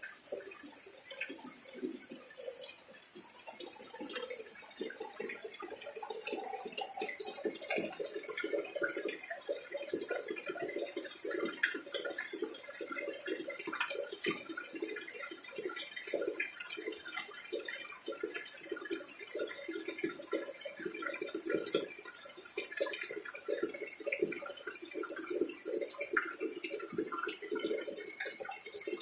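Rain falling, a dense irregular stream of drops hitting close by, growing heavier a few seconds in.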